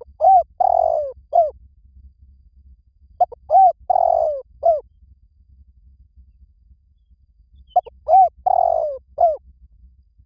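Spotted dove cooing: three repeated phrases a few seconds apart. Each phrase is a short note, a coo, a longer drawn-out coo and a short closing coo.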